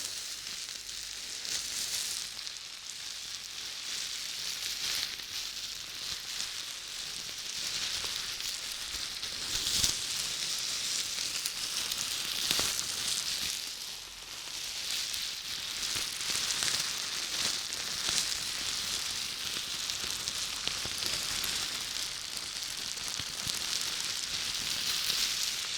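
Close-miked crackling, scratching hiss of an ASMR trigger sound, swelling and fading in waves every few seconds.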